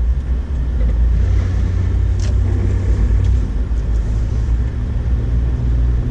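2008 Honda Ridgeline's 3.5-litre V6 and drivetrain running in first gear through deep snow, a steady low rumble, with a faint click about two seconds in.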